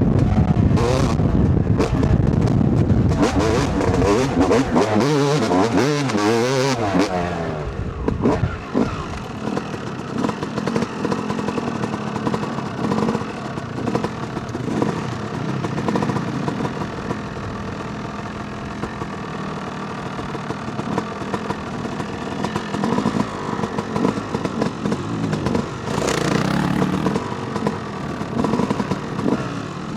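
Two-stroke dirt bike engine, a 2008 Yamaha YZ250, revving hard with its pitch rising and falling through the first several seconds, then running at steadier, lower revs with a brief surge of throttle near the end.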